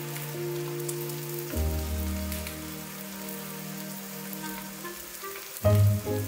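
Egg, shrimp and oyster mushrooms frying in an enamelled cast-iron frying pan, a soft steady crackling sizzle, under background music whose held chords change about a second and a half in and again near the end.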